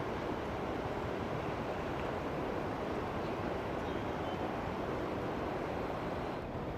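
Steady rushing noise of wind and water around a moving passenger ferry, with a low rumble underneath.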